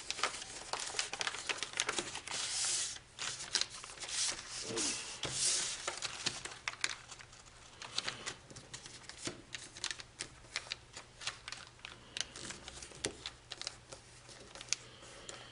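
Foil origami sheet crinkling and rustling as it is folded and creased by hand: a dense run of small crackles, with two longer rustles a few seconds in.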